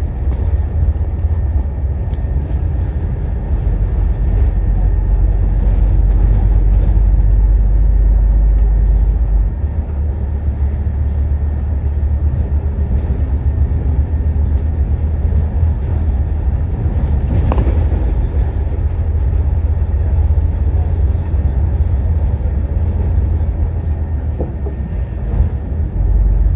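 Scania N230UD double-decker bus's five-cylinder diesel engine pulling along, heard on board as a steady low drone whose note changes about nine and a half seconds in. A single sharp knock comes about two thirds of the way through.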